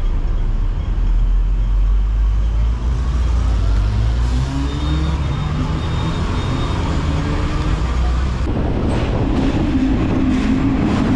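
Hong Kong double-decker tram running with a steady low rumble. About halfway through, its motor whine rises in pitch as it picks up speed. Near the end, sharper clattering joins in.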